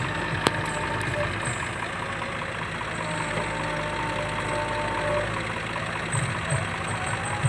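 Heavy diesel engine running steadily at low speed, with a single sharp click about half a second in.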